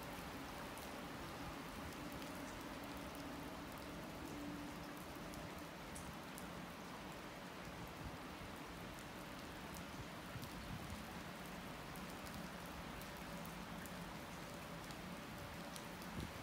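Steady rain falling, with scattered louder drops ticking. A faint low hum from a departing train dies away about five seconds in.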